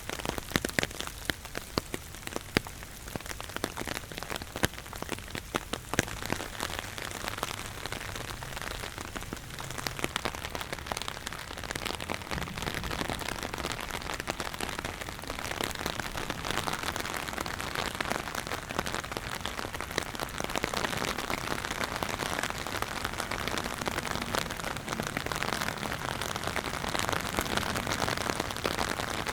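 Rain falling, with many individual drops striking close by in sharp clicks at first, then thickening into a steadier, heavier hiss of rain from about halfway.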